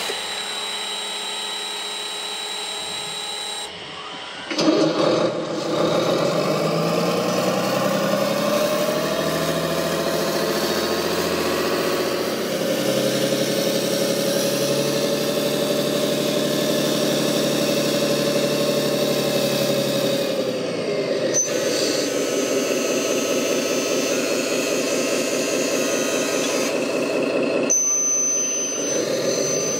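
A motor starts up about four seconds in, rising in pitch and then running steadily. Its pitch shifts twice later on.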